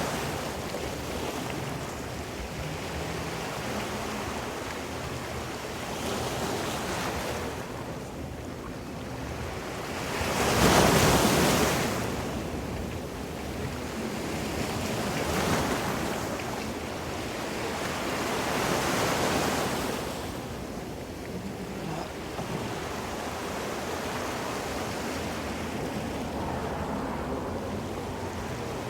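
Ocean waves washing in, with a steady surf noise that swells and falls. The loudest wave breaks about ten seconds in.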